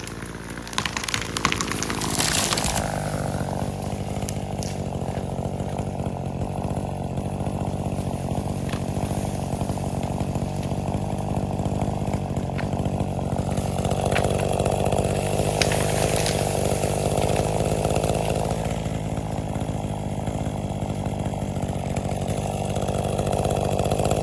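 Gas chainsaw picking up speed, then running steadily under load as it cuts through a tree trunk. It stops abruptly at the very end.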